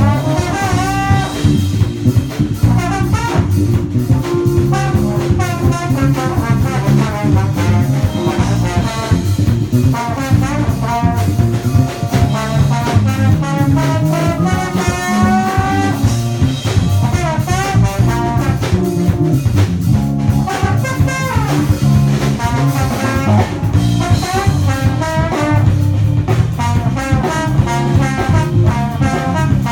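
Live band playing jazz-style music, a horn section carrying a wavering melody over a drum kit.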